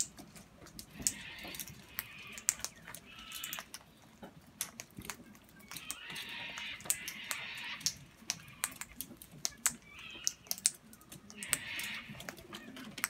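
Irregular sharp clicks and taps of birds' beaks pecking and cracking seed on a hard feeding surface, with several short raspy bird sounds in between.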